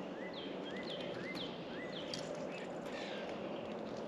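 A songbird singing a quickly repeated two-note phrase, a low rising note and a higher falling note about twice a second, over a steady outdoor background hiss. A few faint clicks are scattered through it.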